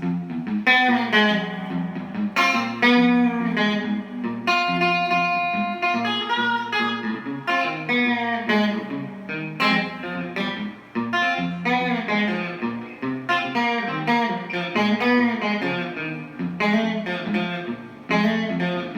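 Solo guitar playing an instrumental introduction: a picked melody of single notes over repeated bass notes.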